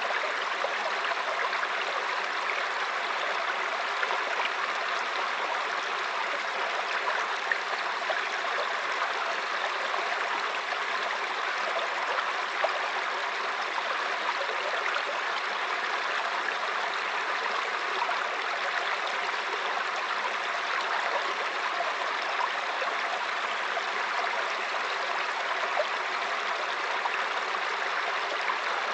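Mountain stream babbling over rocks: a steady rush of flowing water, with small brief splashes standing out now and then.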